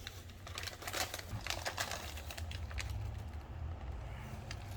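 Irregular crisp clicks and crackles close to the microphone, densest in the first two seconds, as food is handled and bitten into, over a low steady hum.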